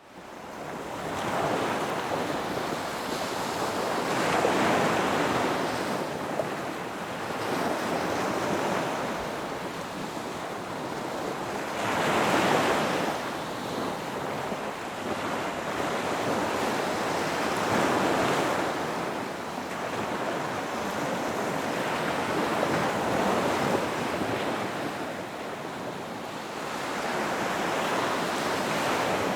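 Ocean waves breaking, each surge swelling and ebbing about every four to five seconds over a steady wash of surf. The sound fades in from silence at the very start.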